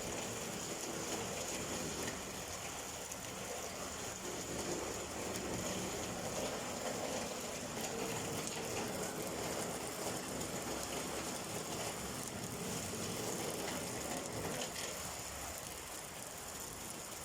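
Steady rainfall, an even wash of sound with no breaks.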